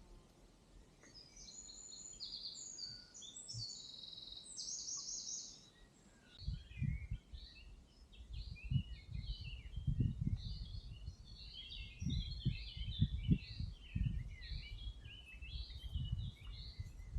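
Songbirds singing and chirping, with a loud trilled phrase in the first few seconds and many scattered chirps after. From about six seconds in, irregular low thuds join them.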